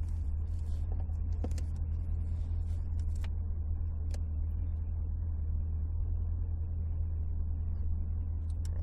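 Supercharged Chevrolet Camaro engine idling steadily as a deep low rumble, heard from inside the cabin, with a few light clicks.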